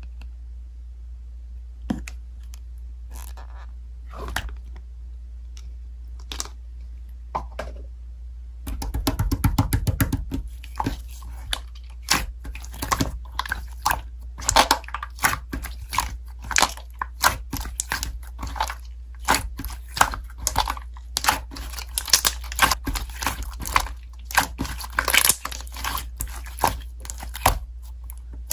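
Slime being squished and pressed by hand, making crackly clicks and pops: only a few scattered ones at first, then from about nine seconds in a dense, irregular run of them, several a second. A steady low hum runs underneath.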